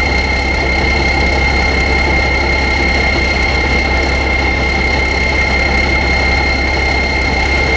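Heavy diesel engine running steadily, with a steady high-pitched whine over the low engine sound.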